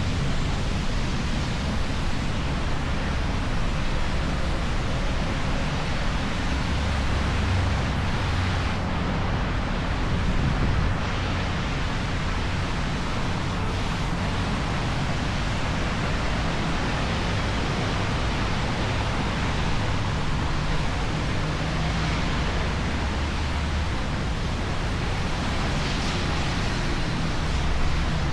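Steady wind rushing over the camera microphone with a low, uneven rumble, as heard while riding an electric unicycle.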